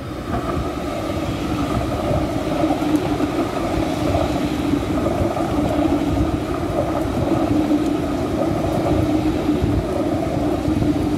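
An ICE T high-speed electric train passing close by through a station: steady loud rolling noise of wheels on rail with a droning hum. The sound swells up in the first second as the train draws alongside, then holds steady.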